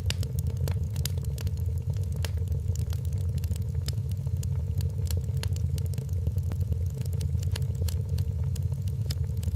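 Wood fire crackling in a fireplace: many sharp pops and snaps, several a second and uneven, over a steady low rumble.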